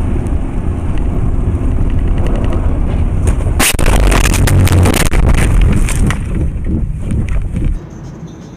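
Car driving with a heavy low rumble, then a collision a little under four seconds in: a sudden loud impact followed by about two seconds of crunching and rattling. The rumble drops off sharply near the end.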